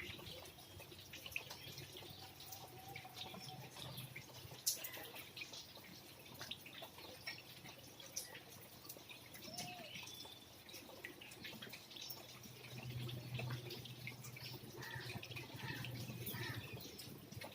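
Rain dripping: scattered drops ticking irregularly, with a few faint bird chirps and a low steady hum underneath.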